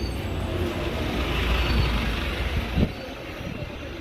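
A heavy vehicle's low rumble swells and then eases, with one sharp knock a little under three seconds in.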